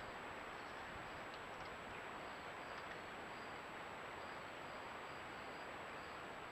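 Steady outdoor background hiss picked up by a trail camera's microphone, with a constant thin high whine over it and faint short high chirps every so often.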